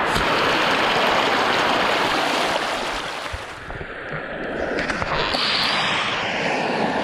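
Steady rush of water from a stream or waterfall, easing a little about halfway through before building again.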